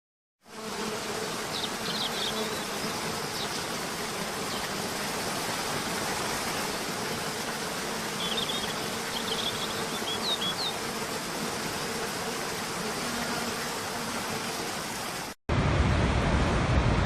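Steady rushing noise of falling water with a low hum through it and a few faint, short high chirps. About fifteen seconds in it cuts off abruptly and gives way to a louder, deeper rush.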